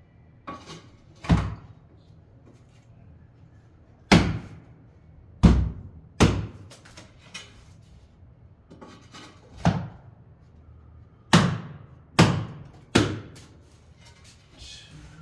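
A series of about eight sharp knocks or blows, irregularly spaced a second or more apart, each ringing out briefly.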